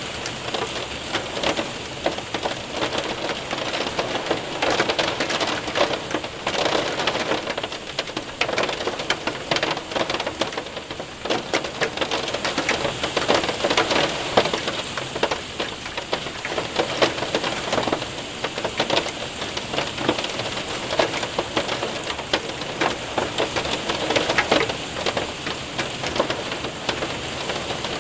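Hail and rain hitting a window and roof: a dense, steady patter of countless small ticks and taps.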